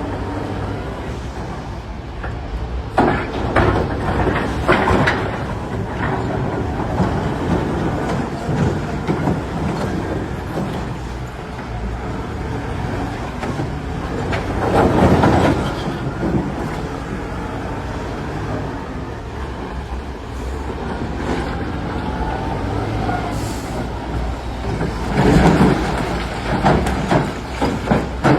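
Heavy diesel earthmoving machinery running with a steady low rumble, with three louder spells of clattering: about three seconds in, midway, and near the end.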